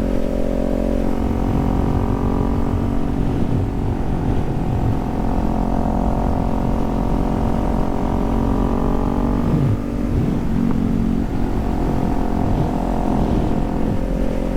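Kawasaki Z400's parallel-twin engine running steadily while riding, with a brief dip in level and pitch about ten seconds in.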